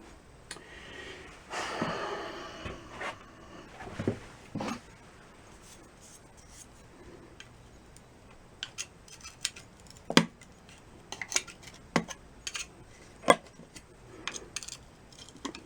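Scattered light metallic clinks and knocks as a partly dismantled engine is handled. Something loose clanks around inside the crankcase, which the owner takes for bits of broken piston.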